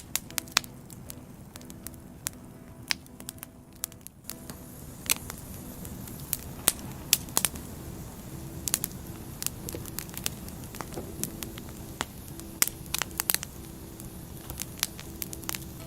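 Firewood burning in an open fire, crackling with irregular sharp pops and snaps over a steady low rustle of flames.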